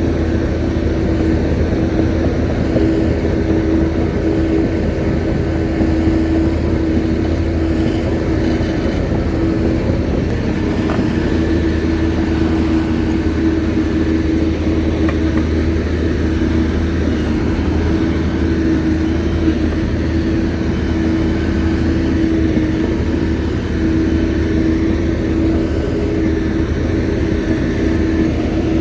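Shantui bulldozer's diesel engine running, a steady drone with a constant low rumble that hardly changes.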